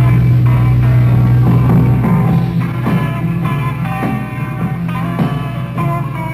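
Mid-1960s psychedelic rock band playing live without vocals: guitar and drums over a held low bass note, with strokes roughly every half second to second.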